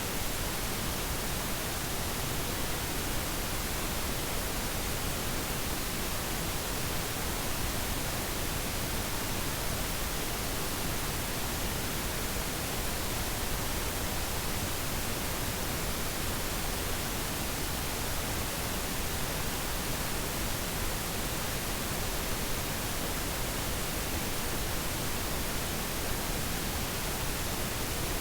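Steady, even hiss like static, with no other sound.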